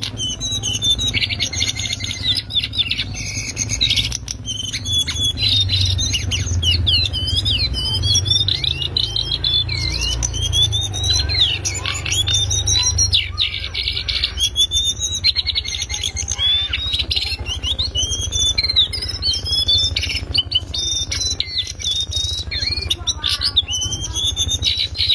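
Lesser shortwing (cingcoang coklat) singing a fast, unbroken chattering song of high twittering trills and quick up-and-down whistles, over a steady low hum.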